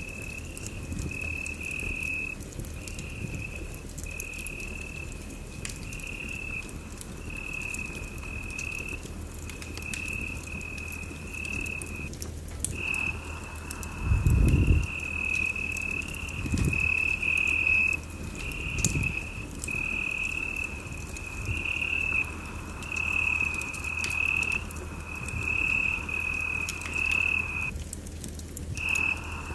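Fireplace fire crackling with a few low pops, the strongest about halfway through. Over it runs a steady high-pitched trill pulsing about once a second, which pauses briefly twice.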